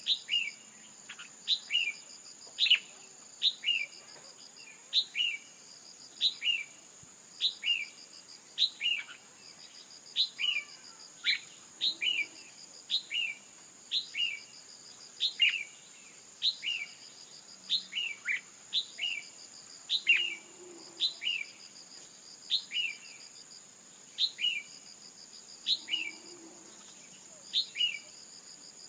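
Female red-whiskered bulbul calling: a short, sharp two-note call, a quick falling note then a brief second note, repeated evenly about once a second as a lure track to set males singing. A steady high insect-like buzz runs underneath.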